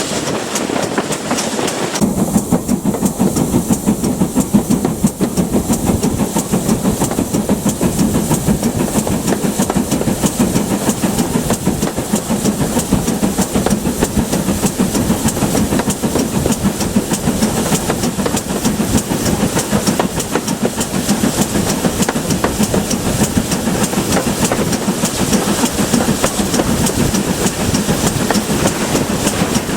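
Steam train on the move, headed by a GWR Manor-class 4-6-0 locomotive: wheels clattering steadily on the rails, with steam hiss. It grows fuller and louder about two seconds in.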